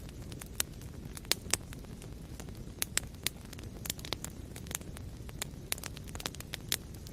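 Wood fire burning in a fireplace: a steady low rumble of flames with irregular sharp crackles and a few louder pops.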